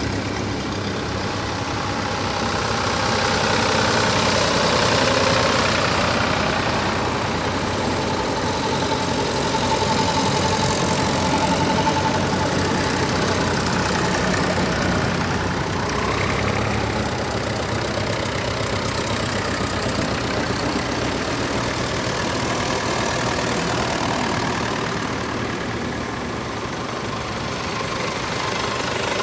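Tractor engines running steadily, growing louder about four to six seconds in and again near the middle.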